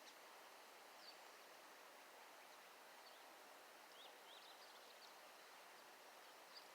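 Near silence: faint steady hiss with a few short, high chirps of small birds, clustered about four seconds in.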